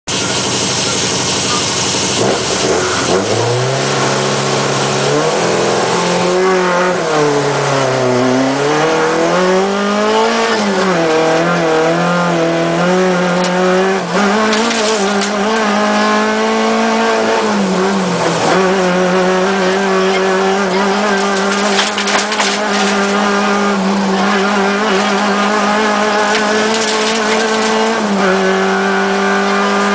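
Volkswagen Golf Mk3 rally car's engine heard from inside the cabin, pulling away a couple of seconds in and driven hard, its revs climbing and dropping again and again through gear changes and corners.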